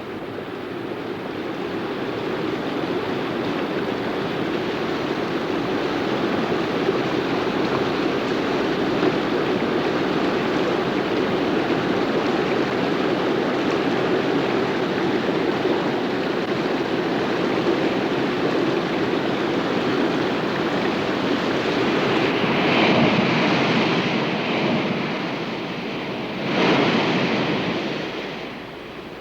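Steady rush of moving water, with two louder surges near the end.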